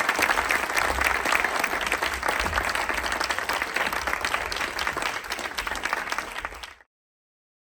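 Audience applauding, a dense patter of many hands clapping, which cuts off abruptly near the end as the recording stops.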